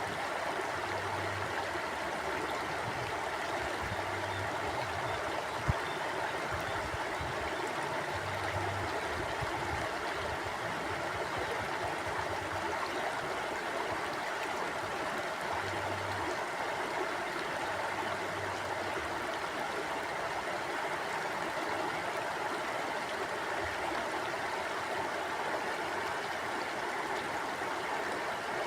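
Mountain stream water flowing over rocks: a steady, even rushing with a low burble underneath.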